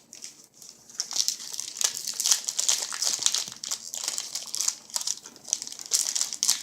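A baseball card pack wrapper being torn open and crinkled by hand: a dense run of irregular crackles that starts about a second in.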